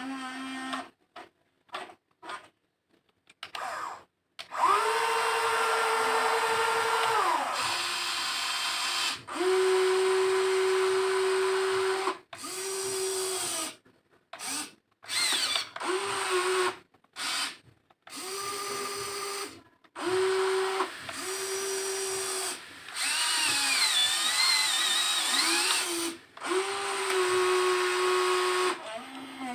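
Electric motors of a WLtoys XK 16800 RC excavator whining in repeated short bursts, starting and stopping with near-silent gaps between, the pitch stepping up and down as different movements are run.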